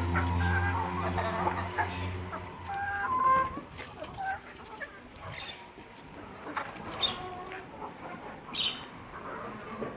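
Chickens clucking in short, pitched calls, with a few brief high chirps in the second half. A low steady hum runs under the first few seconds and stops about three and a half seconds in.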